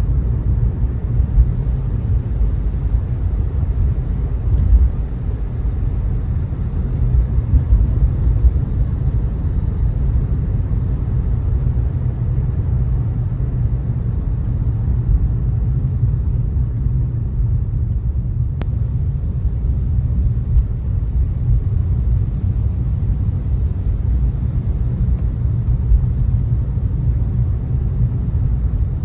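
Car driving on a wet road: a steady low rumble of engine and tyres, with a fainter hiss of tyres on wet pavement that eases off about a third of the way in.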